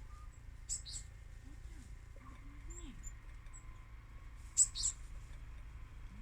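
Small garden birds calling: short, high-pitched chirps, with two louder double calls about four seconds apart and a few fainter notes between them.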